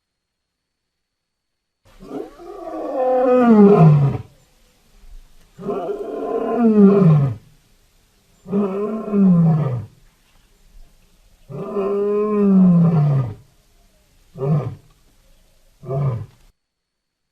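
Lion roaring, starting about two seconds in: four long calls, each falling in pitch, followed by two short calls near the end.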